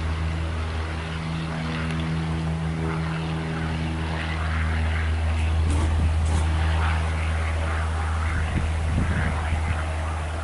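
Single-engine piston light aircraft, a Piper PA-28 Cherokee, its engine and propeller running with a steady low drone that grows a little louder about midway.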